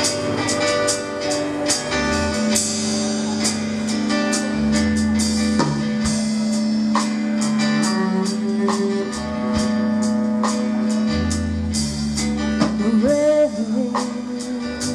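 A live rock band playing the instrumental introduction to a song, guitar to the fore over bass and frequent drum and cymbal hits.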